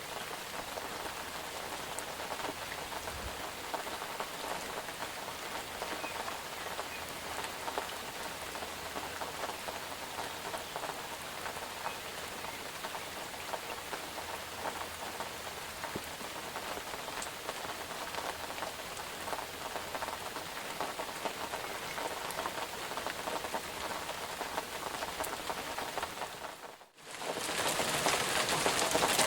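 Steady rain falling, an even dense patter of drops. About 27 seconds in it drops out for a moment and comes back louder.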